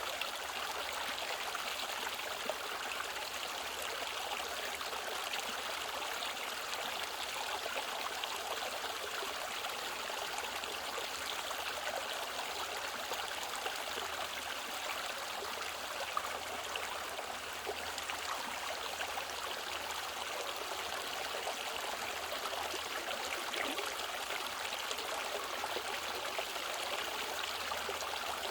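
Mountain stream flowing over rocks: a steady rush of water with fine trickling and splashing.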